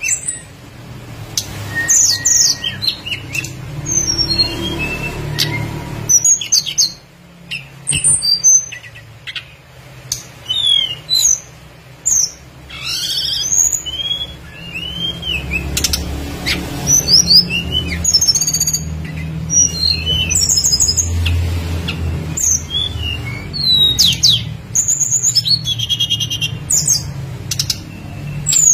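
A tledekan gunung songbird singing a fast, varied song of short whistles, chirps and trills, over a steady low hum.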